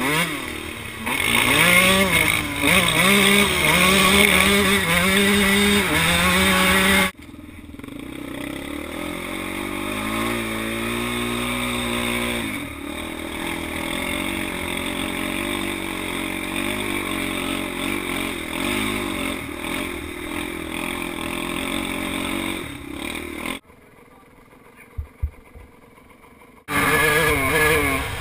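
Dirt bike engines revving and running, the pitch rising and falling with the throttle, in several clips cut together. A quieter stretch with a few sharp knocks comes about three-quarters of the way through.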